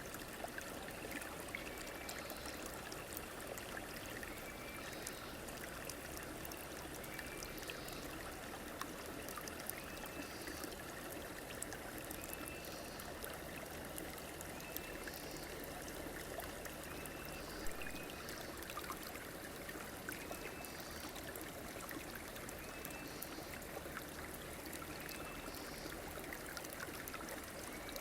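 A river or stream flowing steadily over its bed, a continuous rush of water. A short, high, upward-hooked chirp repeats about every two seconds above it.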